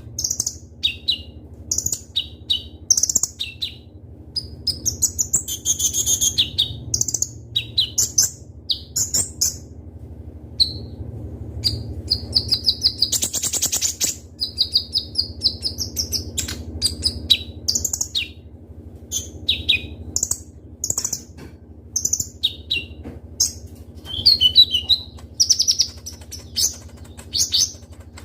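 Kolibri ninja (konin) sunbird singing in full song: a fast run of sharp, high chirps and short trills, with a brief noisy rasp about halfway through. A steady low hum runs underneath.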